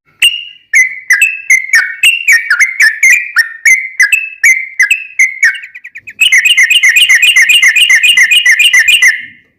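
Yellow-vented bulbul (trucukan) singing: short chirping whistled notes about three a second, then from about six seconds a fast unbroken run of notes, about eight a second, for some three seconds (the long 'ropel' song).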